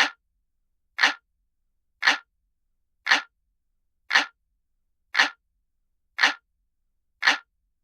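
Analog clock ticking sound effect, one sharp tick about every second, with silence between the ticks.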